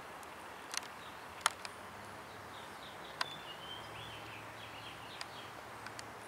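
Outdoor ambience with a steady background hiss. A small bird chirps in a quick run of short calls about three to four and a half seconds in. A few sharp clicks are scattered through, and a faint low drone sets in partway.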